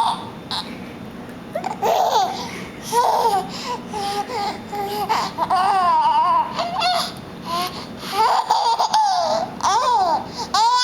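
A two-month-old baby vocalizing in a string of high-pitched coos and squeals that glide up and down, in several short bouts with brief pauses between them.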